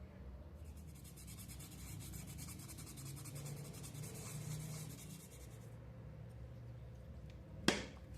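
Rapid, fine scraping for about five seconds, followed by a single sharp click near the end.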